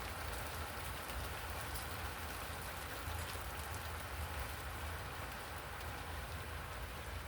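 Rain falling: a steady, even hiss with faint scattered drop ticks over a low rumble.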